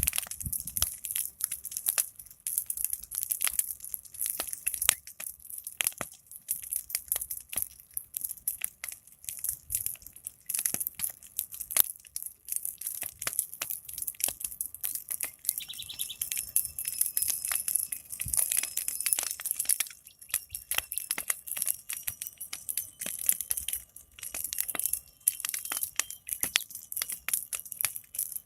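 A big fire crackling, with dense, irregular sharp pops and snaps. From about halfway, birds chirp and sing faintly behind it.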